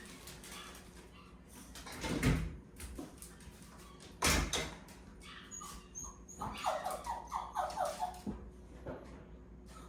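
A dog whining in a quick series of short, high-pitched cries in the second half, after two thumps.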